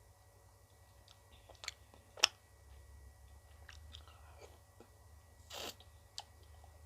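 A person biting into and chewing frozen ice cream, with scattered small mouth clicks. A single sharp bite about two seconds in is the loudest sound, and a short noisy rush comes a little after five seconds.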